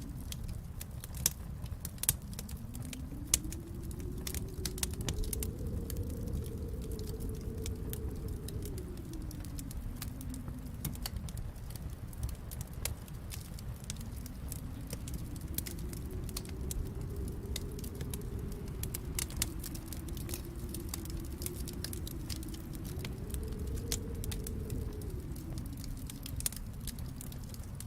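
Wood fire crackling, with many small crackles and a few sharp pops, over a low howl of storm wind that swells and fades twice.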